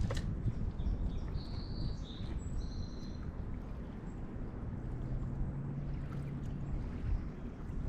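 River water running past the bank, a steady low rumble, with a few short high bird chirps about one and a half to three seconds in. A steady low hum joins about five seconds in.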